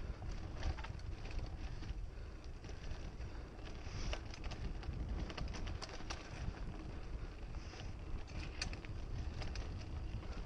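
Mountain bike ridden along a dirt trail, heard through a GoPro: wind buffets the microphone over a low rumble of tyres on dirt, with frequent small clicks and rattles from the bike.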